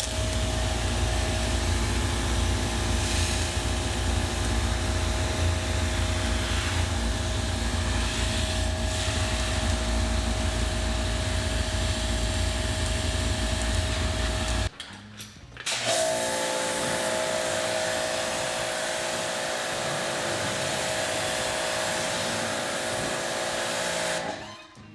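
Husqvarna 2000 PSI electric pressure washer's motor and pump running with the trigger held, spraying. It cuts out about 15 seconds in, as the total-stop system shuts the motor off when the trigger is released, then starts again and runs for about 8 seconds before stopping just before the end.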